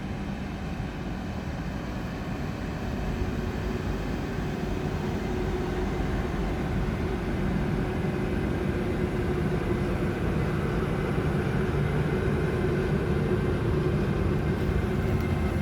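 Freight train hauled by an ÖBB class 1293 (Siemens Vectron) electric locomotive approaching, a steady low rumble with faint steady tones above it that grows slowly louder.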